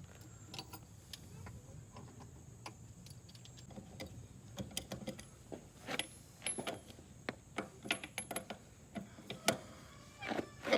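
Irregular clicks and knocks of things being handled, coming more often from about four seconds in, over a low steady hum.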